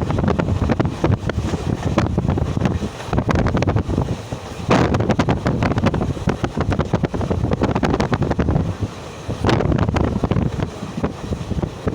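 Wind buffeting the microphone over the rumble and rattle of a moving train.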